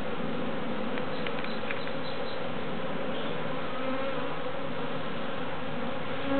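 A swarm of honey bees buzzing in a loud, steady, dense hum. The bees are very active and agitated from being disturbed as their comb is cut away and moved.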